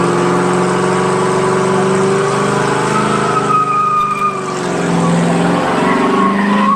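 Car engine held at high, steady revs, its pitch stepping up and down slightly a few times.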